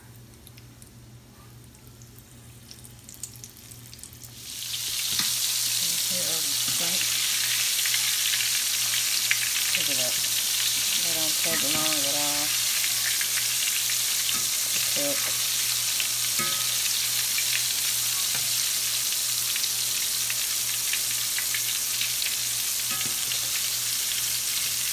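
Shrimp dropped into hot oil in a cast-iron skillet: about four and a half seconds in, a loud, steady sizzle of deep frying starts suddenly and keeps going, with light clicks as a wire skimmer moves the shrimp in the pan.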